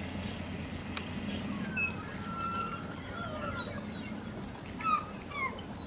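Gulls calling: a scatter of short, gliding cries from several birds, the loudest two near the end, over a steady low background noise.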